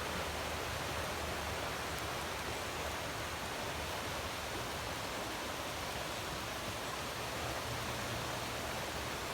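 A rain-swollen creek rushing, a steady even noise of running water.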